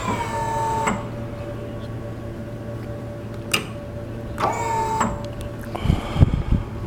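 Tommy Gate aluminum lift gate's electric-over-hydraulic pump running with a steady hum while the gate moves. Two high squeals fall in pitch and stop sharply, a click comes about halfway through, and a few clunks sound near the end.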